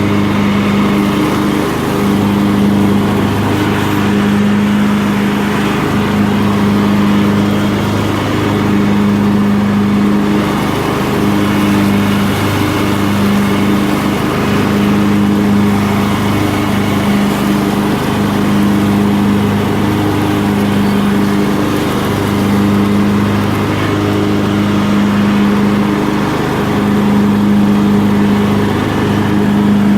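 Craftsman LT1000 lawn tractor running under load while mowing and chopping leaves into its bagger: a steady engine drone whose low hum swells and fades every second or two.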